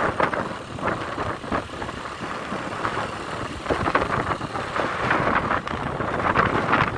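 Uneven rushing noise of wind and a moving vehicle, surging irregularly.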